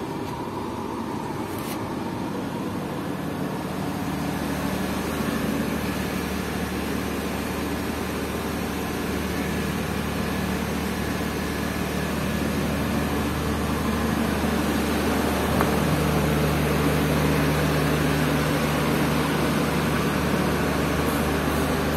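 Steady mechanical hum inside an air-conditioned railway carriage. About 15 s in it gives way to a diesel train drawing into a station platform, its engine running with a steady low drone.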